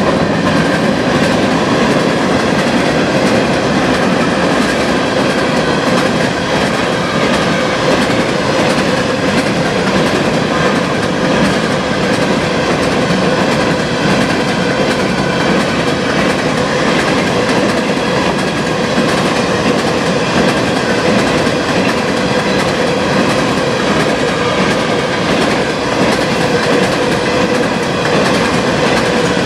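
Empty covered hopper cars of a freight train rolling past at high speed: a loud, steady rumble of steel wheels on rail with clickety-clack over the rail joints, and a faint steady ringing tone running under it.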